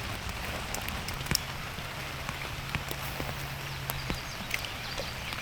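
Light rain falling, an even patter with scattered drop ticks. A faint steady low hum comes in about a second in and stops about four seconds in.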